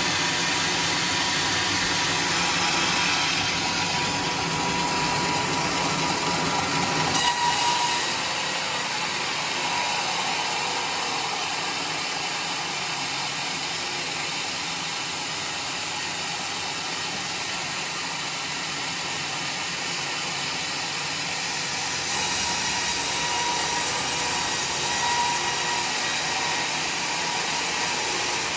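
Homemade sawmill running and sawing a log: a steady machine noise with a faint steady tone. The sound shifts abruptly twice, about a quarter of the way in and again near the end.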